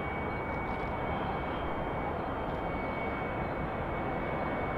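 Jet airliner engines running, heard from a distance as a steady rush of noise with a thin, steady high whine.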